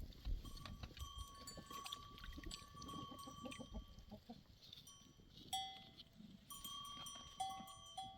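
Bells on a flock of livestock, faint. They ring and clink irregularly, several different pitches overlapping.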